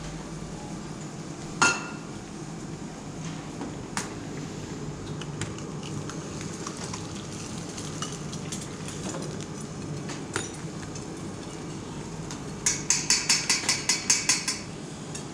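Dishes and cutlery clinking over a steady hum of dining-room noise: a few single clinks spread apart, then a quick run of about a dozen light clinks near the end.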